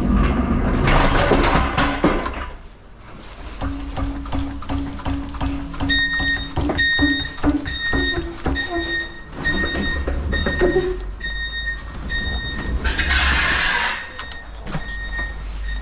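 Electronic warning beeps repeating about twice a second, one lower-pitched series starting about four seconds in and a higher-pitched series taking over, over a steady low hum, with bursts of hissing near the start and again about two-thirds of the way through.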